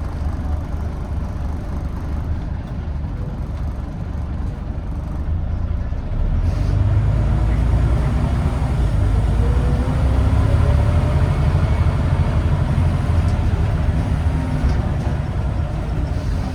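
Scania N94UD Omnidekka double-decker bus's diesel engine heard from on board, running steadily, then growing louder about six seconds in with a rising whine as the bus pulls away and accelerates.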